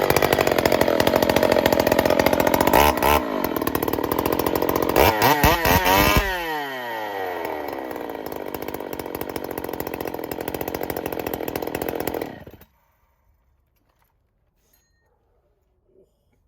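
Rebuilt Jonsered 2186 two-stroke chainsaw running at high revs, with throttle blips about 3 and 5 to 6 seconds in, then winding down to a steadier, quieter idle before it cuts off suddenly about 12 seconds in.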